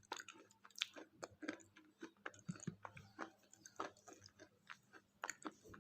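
Close-miked chewing of a KitKat chocolate-covered wafer bar, a quick run of small crisp crunches and crackles, several a second.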